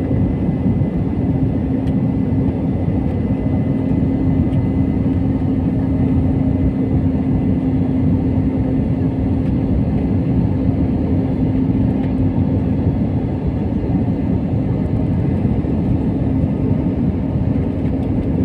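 Steady drone of a jet airliner heard from inside the passenger cabin: a dense low rush of engine and airflow noise with a constant low hum running through it.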